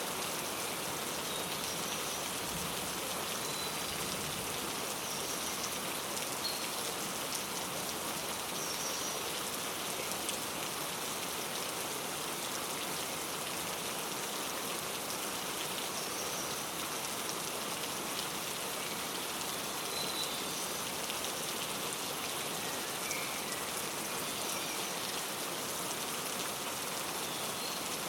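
Steady rain falling, with faint, short bird chirps scattered over it every few seconds.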